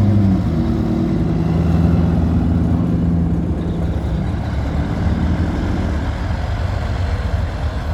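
A car engine running at a steady low note. After about four seconds the note fades into a low rumble.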